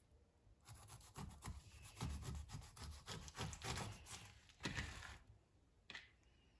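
Quick rubbing and scraping strokes against a wooden board during food preparation, followed by a single tap near the end.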